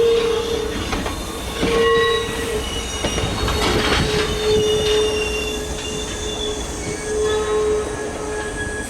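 Caltrain train's steel wheels squealing against the rails: a strong steady squeal that keeps breaking off and returning, with thinner, higher squeals over a low rolling rumble.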